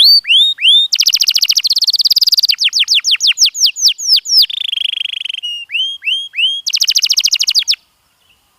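Canary singing: fast rolling trills of repeated whistled notes that change phrase every second or so, with a buzzier stretch in the middle. The song stops abruptly near the end.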